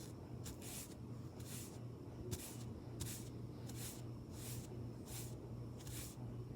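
Makeup being applied close to the microphone: soft hissy strokes repeating evenly, about one every 0.7 seconds, over a low steady hum.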